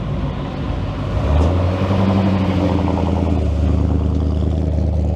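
A car engine running with a steady low hum. About a second and a half in it grows louder and deeper, then holds level.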